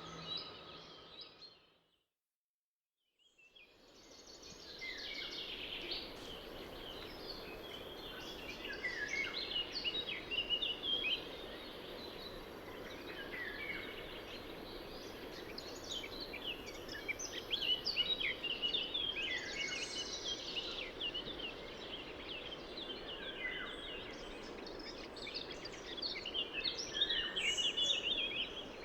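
Steady rush of river water under many songbirds chirping and trilling. The sound fades out to silence about two seconds in and fades back in a second or two later.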